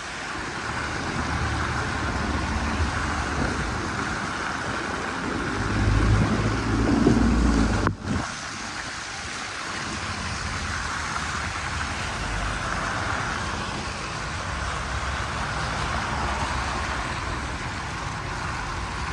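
City street traffic: a steady hiss of vehicles on snowy, wet roads, with a low rumble as a vehicle passes close about six to eight seconds in. The sound drops out for a moment near eight seconds.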